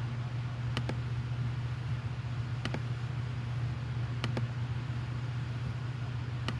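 A steady low mechanical hum, with a light tick about every one and a half to two seconds.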